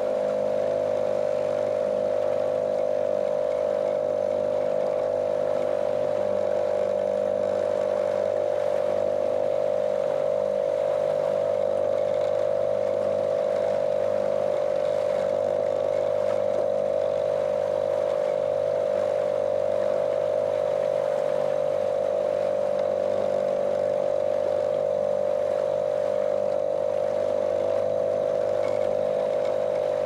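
Small motorboat's outboard motor running at a steady cruising speed, a monotonous drone holding one pitch throughout, with a faint rush of water under the hull.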